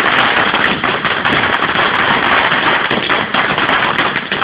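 Ground fountain fireworks spraying sparks, making a loud continuous hissing crackle.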